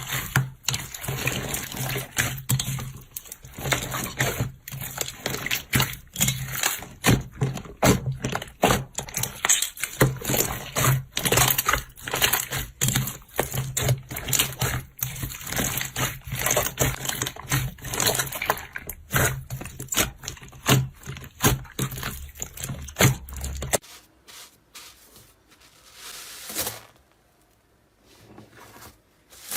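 Slime being squeezed and poked by hand, giving a dense run of small crackles, clicks and wet pops. About 24 seconds in it cuts off abruptly, leaving only a few quieter crackles.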